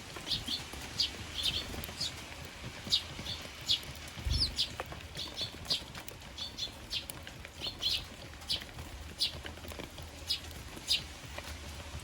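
Eurasian tree sparrows chirping over and over, short sharp chirps one or two a second. There is a brief low thump about four seconds in.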